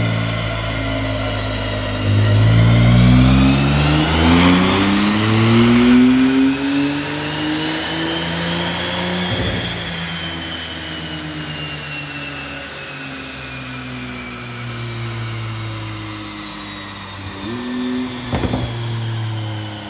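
Stock Porsche 911 Turbo engine doing a full-throttle pull on a chassis dyno. The revs climb in steps through the first half, with a sharp crack at the top of the pull, then wind down slowly as the car coasts off. Another crack comes near the end.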